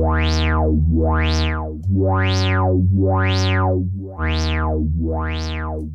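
Moog Werkstatt-01 analog synthesizer playing a sustained low note while its filter opens and closes about once a second, giving a steady rhythmic wah-like sweep. The bass note changes pitch twice.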